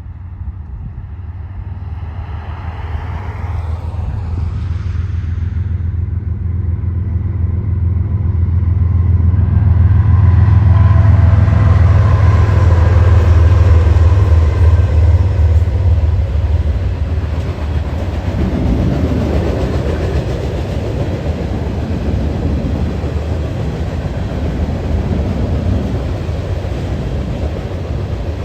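A train approaching and passing close by. Its low engine rumble builds to a peak about a third of the way in, then gives way to a steady rolling rail noise as the cars go by.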